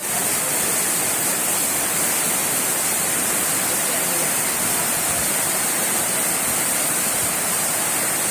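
Steady rush of fast-flowing floodwater, an even hiss with no letup.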